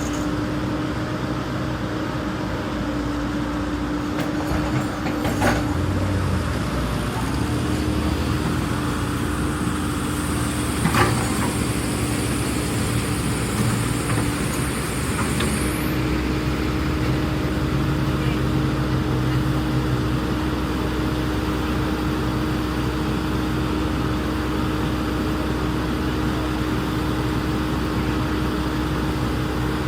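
Hydraulic excavator's diesel engine running steadily with a constant hum, with a sharp knock about five seconds in and another about eleven seconds in. A faint high whine rises and cuts off about sixteen seconds in.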